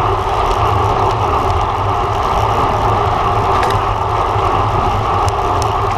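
Steady rushing of wind and tyre noise on a bicycle-mounted camera riding at race speed, with a few faint clicks in the second half.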